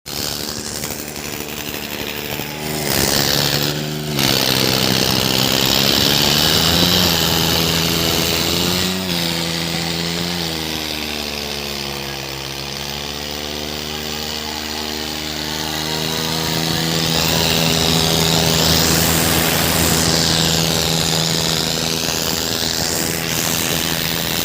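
Diesel tractor engines running hard under heavy load in a tractor tug of war, their pitch sagging and recovering as they pull.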